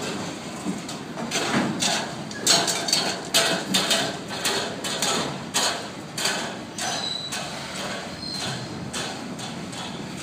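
A passing freight train of autorack cars, its wheels clanking over the track in an irregular series of sharp knocks, about two a second, loudest in the first half and easing off near the end.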